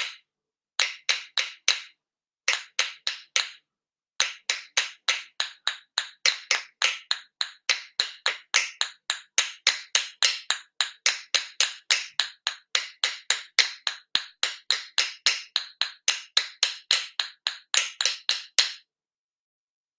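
A hand percussion instrument struck in sharp, dry taps: a few groups of four, then a steady run of about three taps a second that stops shortly before the end, a patter like raindrops.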